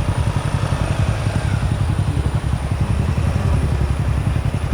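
Vehicle engine idling, a steady rapid low pulsing.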